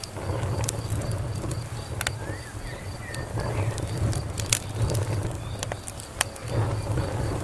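Fire crackling, with scattered sharp pops and snaps over a steady low rumble.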